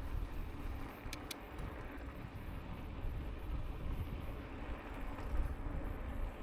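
Wind rushing over the microphone and tyre rumble from a Lankeleisi X2000 e-bike riding steadily, with two short clicks about a second in.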